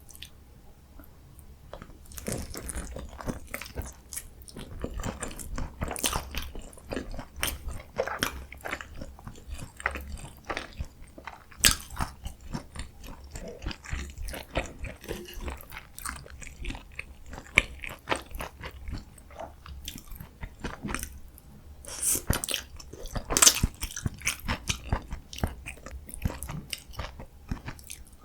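Close-miked eating sounds: steady, irregular chewing and biting with wet crackles and crunches. A few sharper, louder crunches stand out, one near the middle and a cluster about two-thirds of the way through. It starts after a quieter second or two.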